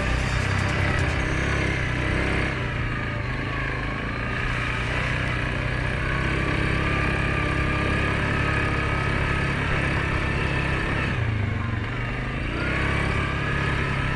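Suzuki KingQuad 750 ATV's single-cylinder engine running steadily under way. It eases off about eleven seconds in and picks up again a second later.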